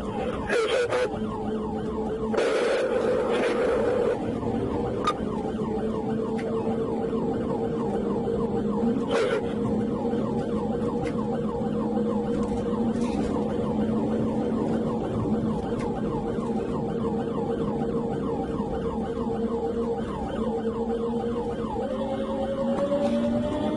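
Police siren sounding continuously in a fast repeating cycle, over a steady engine drone that steps up in pitch near the end.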